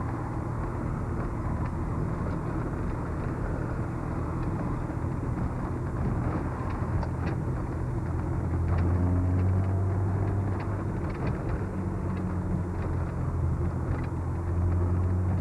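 Car engine and road noise heard from inside a moving car; the low engine hum grows louder about halfway through.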